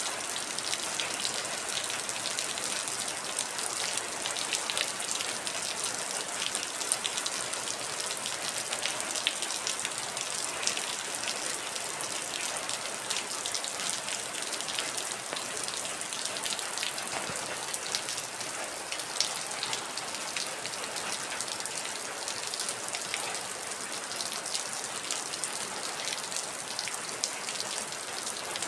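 Heavy rain falling steadily, a dense even hiss with many sharp individual drop ticks on a hard surface.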